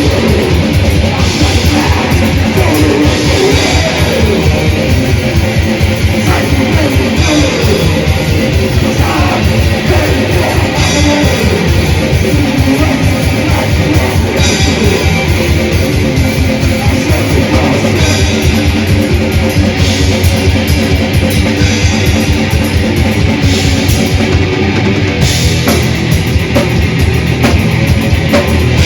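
Death/thrash metal band playing live: distorted electric guitars and bass over fast, driving drumming, with cymbal crashes every few seconds.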